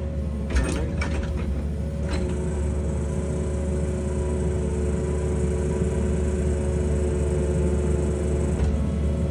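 Excavator's diesel engine and hydraulics running steadily: a low rumble with a steady hum of tones over it. There are a few light knocks around the first second, another about two seconds in, and one near the end.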